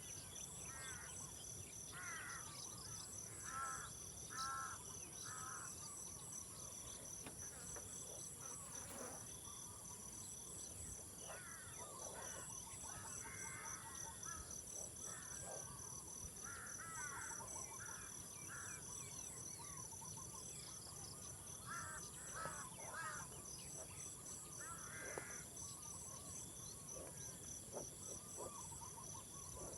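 Outdoor nature ambience: a steady, high-pitched insect chorus with a rapidly pulsing chirp, and birds calling again and again throughout in short phrases.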